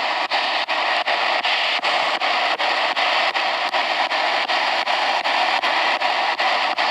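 Spirit box radio sweeping through stations: a steady hiss of static, chopped by short regular breaks about three times a second.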